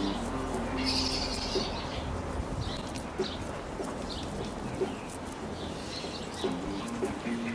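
Birds calling: a short burst of high chirps about a second in, and low held notes near the start and again near the end, over a steady background hiss with scattered light clicks.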